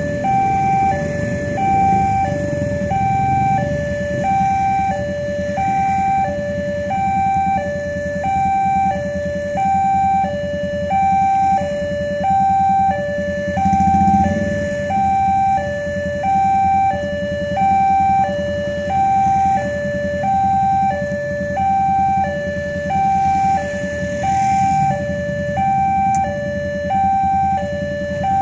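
Railway level-crossing warning alarm sounding a steady two-tone hi-lo pattern, a full cycle about every 1.2 s, signalling that a train is approaching. A low rumble runs underneath and swells briefly about halfway through.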